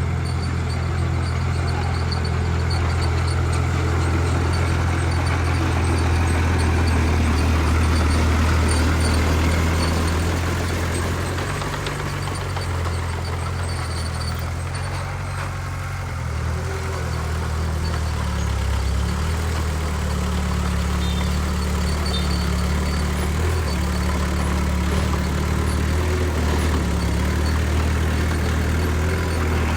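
Heavy diesel engine of earthmoving machinery running steadily at a low pitch, its note and loudness shifting a few times, with faint high ticks over it.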